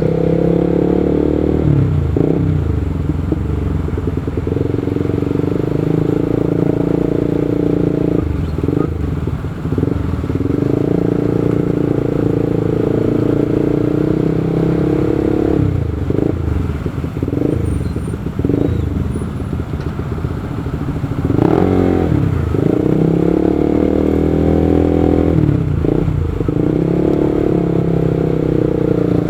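Motorcycle engine running steadily while riding. Its note dips and changes several times as the bike eases off, and it revs up sharply about two-thirds of the way through.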